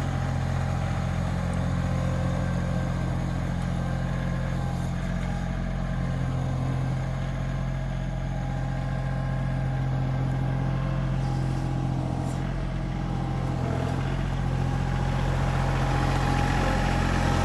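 Small farm tractor's engine running steadily at an even speed.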